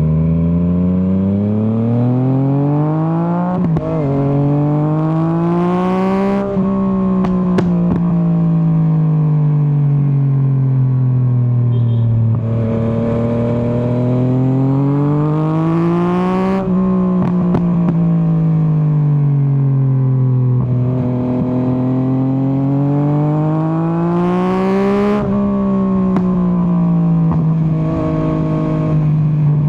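A 2024 Yamaha MT-09's inline three-cylinder engine under way, revving up for a few seconds and then dropping back on the overrun, three times. A rushing hiss comes at the top of each pull, and short sharp pops and crackles come as the revs fall.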